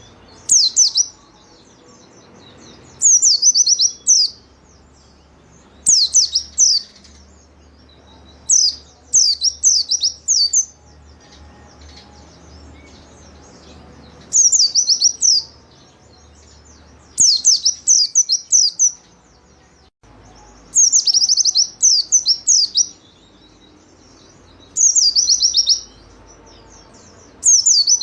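White-eye (pleci) in full song: bursts of quick, high chirping notes, each about one to two seconds long, repeating every two to three seconds.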